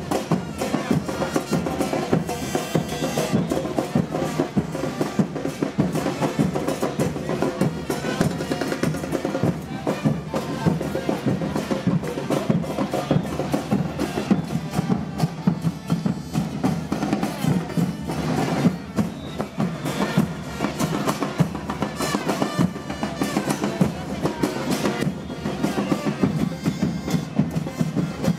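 Carnival percussion troupe drumming: a dense, steady beat of many drums with rolls and a deep bass drum.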